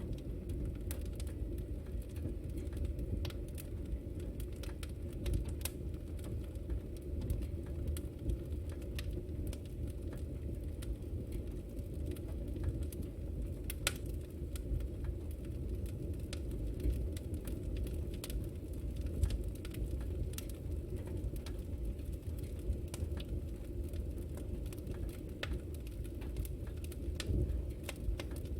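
Wood fire in a fireplace burning with a steady low rumble and frequent small crackles and pops, one sharper snap about halfway through.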